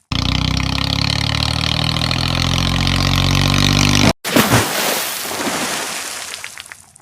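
A heavy vehicle's engine running steadily, its pitch creeping up slightly, cut off abruptly about four seconds in. After a brief gap comes a louder, noisy rumble that fades away.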